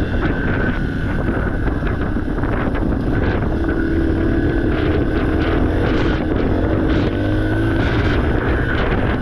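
Yamaha TTR 230 dirt bike's single-cylinder four-stroke engine running while being ridden, its pitch holding steady in the middle and dropping lower near the end, with wind buffeting the microphone.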